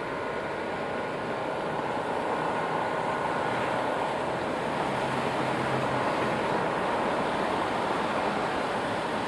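Steady city traffic on rain-wet streets, tyres hissing on the wet road. It swells a little about two seconds in, with a low engine hum around the middle.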